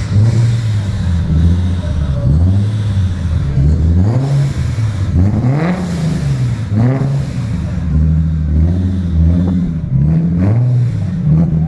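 Supercharged, fully forged Nissan VQ35DE rev-up V6 being revved in the workshop, blipped repeatedly so the engine note climbs and drops back about every second or two.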